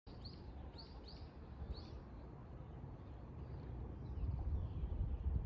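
A small bird chirps about four times in the first two seconds over a low rumble, which grows louder near the end.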